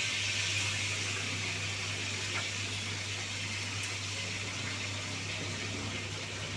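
Steady sizzling hiss of food frying in a pan, fading slightly, over a low steady hum.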